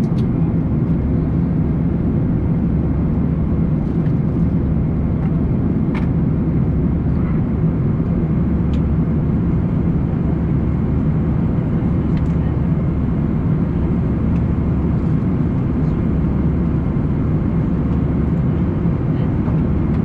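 Steady low rush of cabin noise aboard an Airbus A340-300 in flight, from its engines and the airflow over the fuselage, with a few faint ticks.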